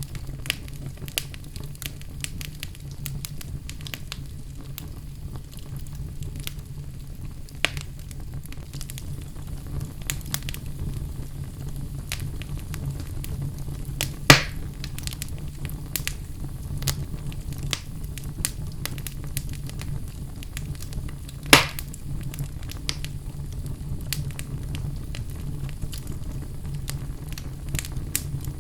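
Wood fire burning in a fireplace: a steady low rumble of flames with frequent small crackles, and two louder pops, one about halfway through and one about three quarters of the way.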